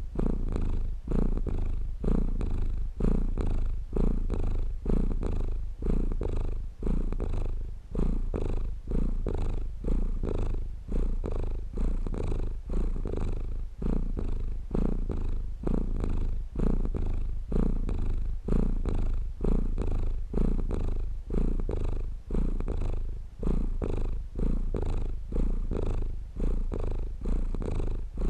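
A domestic cat purring steadily and close up, a low rumble that swells and dips with each breath about once a second.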